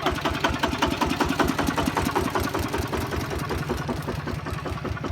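Kubota ZT155 single-cylinder diesel engine running at a steady speed, an even, rhythmic chugging with mechanical clatter.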